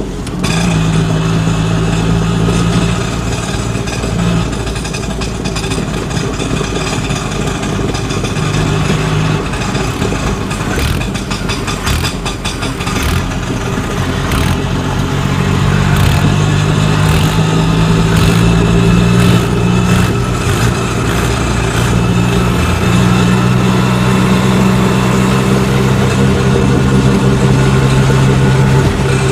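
Vehicle engine running steadily at a low pitch, its pitch stepping up and down now and then, with a run of short clicks or knocks near the middle.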